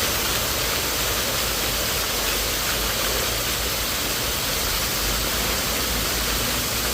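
Steady rushing of water: an even, unbroken roar with a low rumble underneath, typical of an artificial waterfall.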